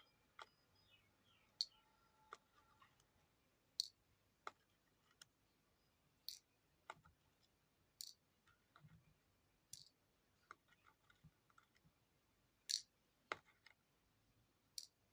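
Near-quiet room with sparse, irregular light clicks and taps, about fifteen in all, from small objects being handled.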